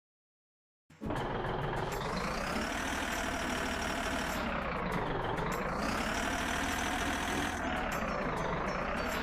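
Heavily loaded wood truck's engine running, its pitch rising and falling in slow swells about every three seconds as it is manoeuvred. It starts after about a second of silence.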